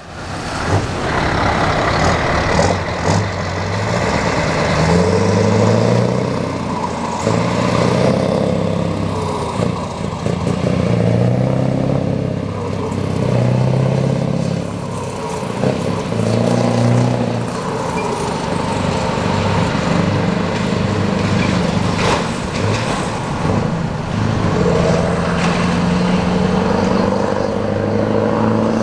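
Scania 164L 480 truck's V8 diesel engine pulling through the gears: the engine note climbs, drops at each gear change and climbs again, over and over.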